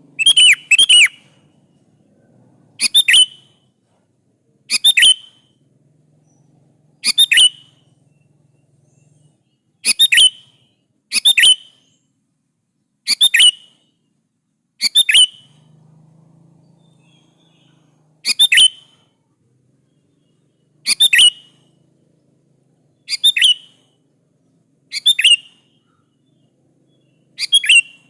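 Sooty-headed bulbul (kutilang) singing in full voice: short phrases of sharp, whistled notes, one every two seconds or so, about thirteen in all.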